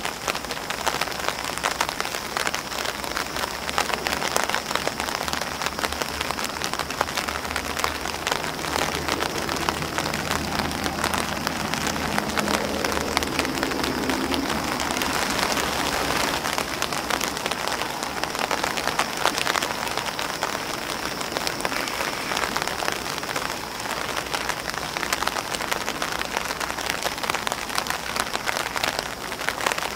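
Rain pattering on an umbrella and on grass leaves: a steady, dense hiss of many small drop impacts. A faint low hum swells and fades around the middle.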